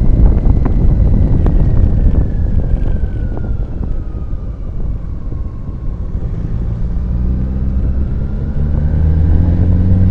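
Motorcycle riding, with wind buffeting the microphone over the engine. The engine eases off about midway, then pulls again, its note climbing toward the end.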